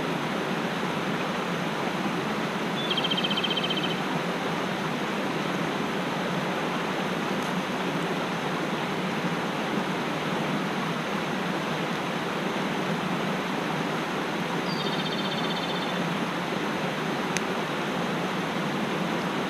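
Mountain stream rushing steadily. A short, high, trilling call is heard twice, about three seconds in and again around fifteen seconds in.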